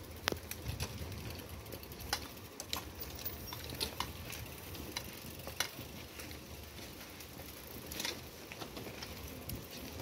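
Container freight train receding into the distance: a faint, steady low rumble with scattered sharp clicks from the wagons on the rails.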